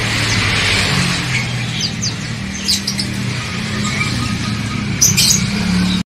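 Caged songbirds chirping in a bird shop: scattered short high chirps, the clearest a little under three seconds in and about five seconds in, over a steady low hum.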